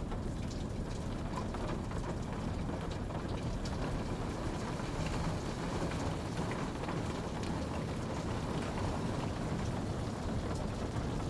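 Steady rain falling, a constant hiss and rush with scattered individual drops ticking through it.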